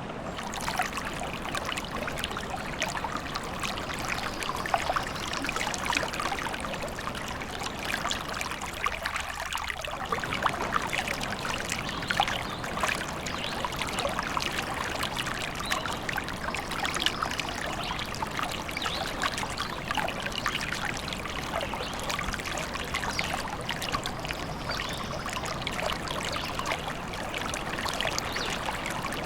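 Forest stream trickling and splashing steadily.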